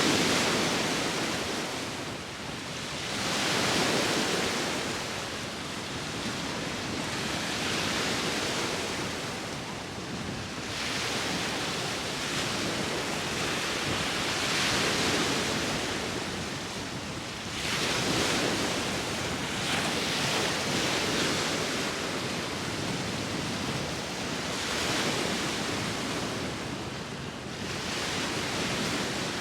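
Sea waves breaking and washing on the shore, swelling and ebbing every few seconds, with wind.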